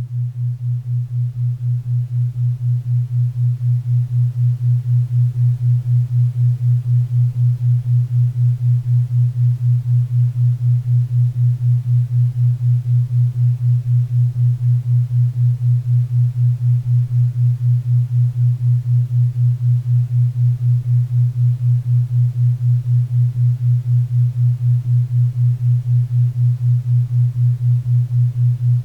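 Low pure tone pulsing evenly about four times a second, a 4 Hz theta-wave beat, over a faint even hiss of pink and brown noise; it swells up over the first few seconds, then holds steady.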